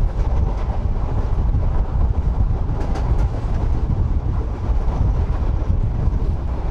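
Indian passenger train running: a steady low rumble of wheels on the rails, heard from inside the carriage.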